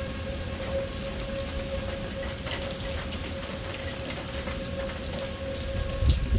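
Heavy rain pattering down, with a distant tornado siren holding one steady tone behind it. A low rumble of thunder swells near the end.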